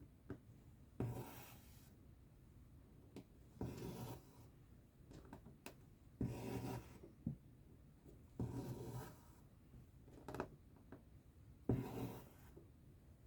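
Embroidery thread being pulled through cross-stitch fabric, a short rasping draw five times, every two to three seconds, with small taps of the needle between the pulls.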